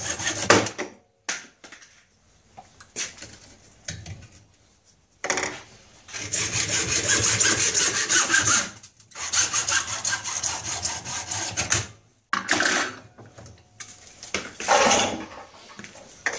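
Hand saw cutting through 32mm plastic pipe held in a vise, in several bursts of quick back-and-forth strokes with short pauses between.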